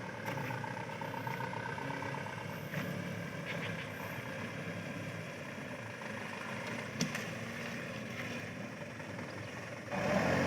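Loaded truck's engine running steadily at low speed, with a single sharp click about seven seconds in and a louder burst of noise near the end.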